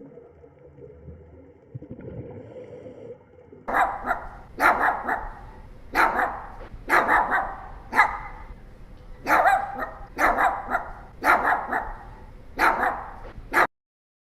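A dog barking repeatedly, about a dozen barks roughly a second apart, starting about four seconds in and cutting off suddenly near the end.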